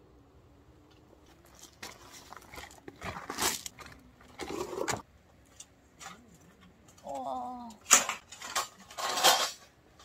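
Camp gear being handled in several short bursts of rustling and scraping, with a brief wavering call just after seven seconds in.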